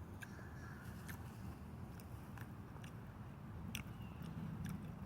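A person chewing food, with a few sharp clicks scattered through, over a low steady hum.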